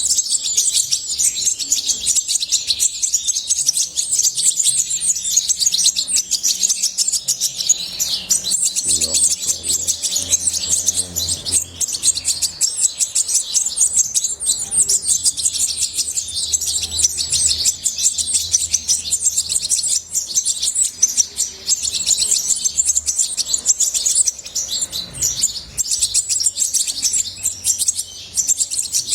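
European goldfinch singing: a long, unbroken run of rapid, high twittering and chirps.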